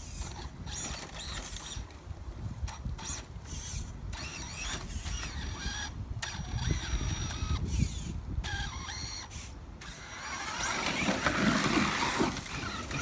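Electric drivetrain of a Losi LST XXL2-E 1/8-scale RC monster truck, run on a 6S battery, whining in repeated short bursts as the throttle goes on and off. Near the end comes a longer, louder stretch.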